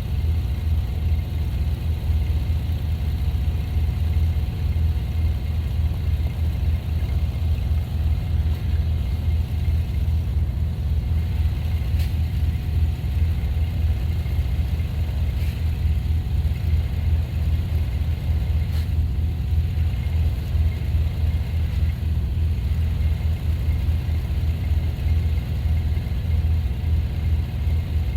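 A vehicle engine running steadily with a low, even rumble, likely the machine used for plowing, with a few faint ticks partway through.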